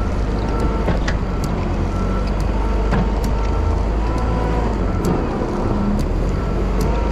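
Wheel loader's diesel engine running steadily while plowing snow, with scattered sharp ticks over the rumble.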